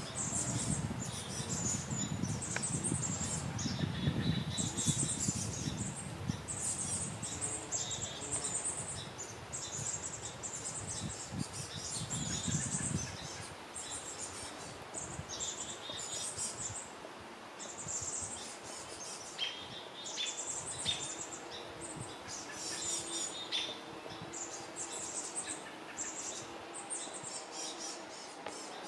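Small birds chirping in short, high-pitched bursts again and again, over a low rumble that stops about halfway through.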